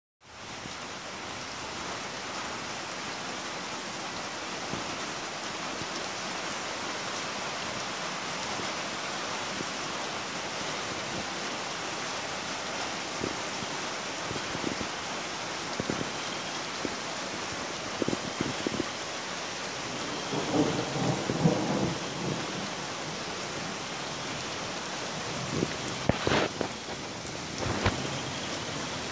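Heavy rain falling steadily on a flooded yard, pattering on the standing water and wet grass. A few brief louder knocks and a short rumble come in the second half.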